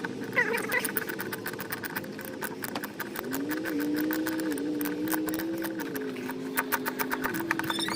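A steady motor hum that steps up and down in pitch a few times, with rapid clicking that gets denser near the end.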